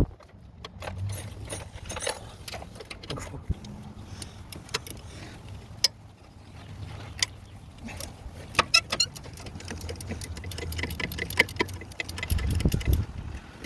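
Hand tools clinking on metal and a ratchet wrench clicking in quick runs as bolts are worked loose on the engine.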